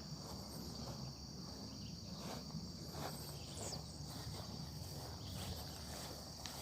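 Faint steady high-pitched insect trill, like crickets, over quiet background noise.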